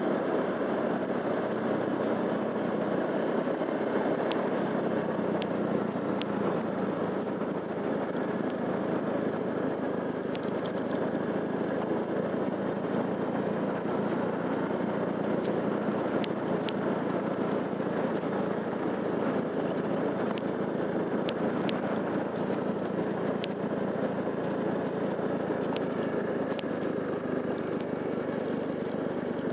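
Motorcycle engine running steadily while being ridden, with road and wind noise and a few faint clicks.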